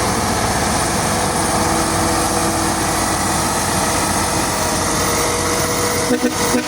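Diesel truck engine running steadily as it labours up a slope, with a brief drop in the sound near the end.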